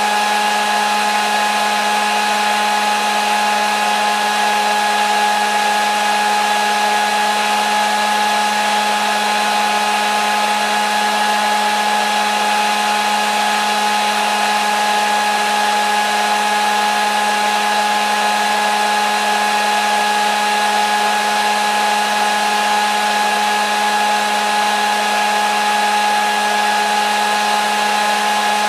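Hair dryer running continuously at a steady speed: an even rush of air with a constant motor whine.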